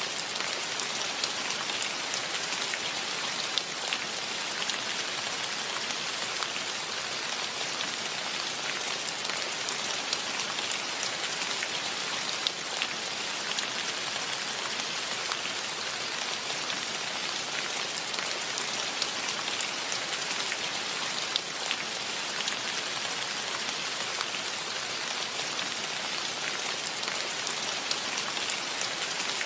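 Steady rain falling: a dense, even hiss flecked with many small, sharper drop ticks.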